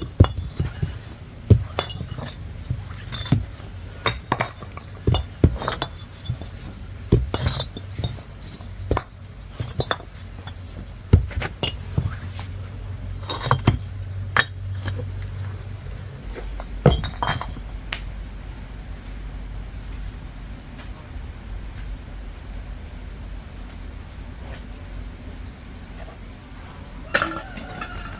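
Irregular sharp clinks and knocks, coming several times a second at times, over a low steady hum. The knocks stop about two-thirds of the way through, and a steady high whine runs underneath.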